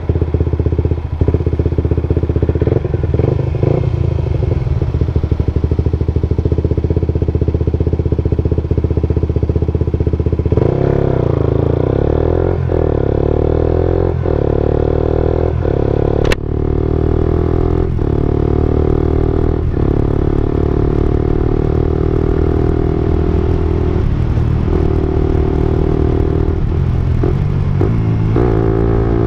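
Suzuki GSX-R125's 125 cc single-cylinder four-stroke engine running through an aftermarket slip-on exhaust. It idles steadily for about ten seconds, then its speed rises and falls over and over, with one sharp click about sixteen seconds in and engine speed climbing again near the end.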